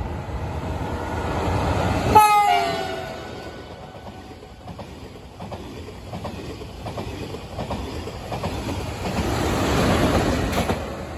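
TGV Duplex double-deck high-speed train passing at speed. Its horn gives a short blast about two seconds in that drops in pitch as the train goes by. Then comes a steady rush of air and wheels on the rails, which swells again near the end as the rear power car passes.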